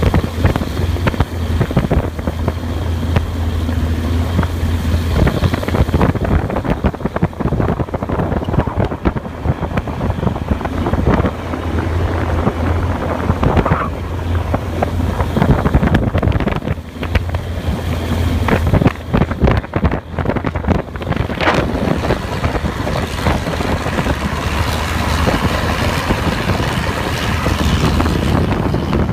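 Boat engine running steadily with a low hum while wind buffets the microphone in uneven gusts.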